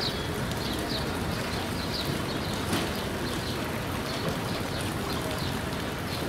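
Passenger train running by, a steady rolling noise with no break, while birds chirp about twice a second.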